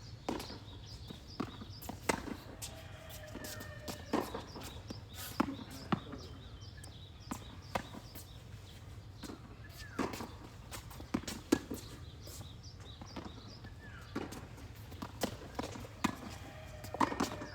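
Tennis rally: sharp pops of racket strikes and ball bounces every second or two, with footsteps on the court between them.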